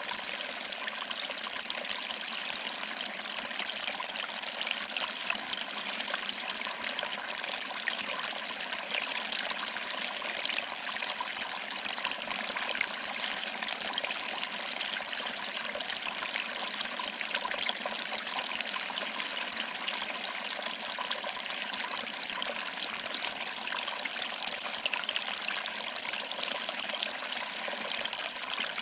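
Small waterfall trickling and splashing over rocks into a pool, a steady, even rush of water.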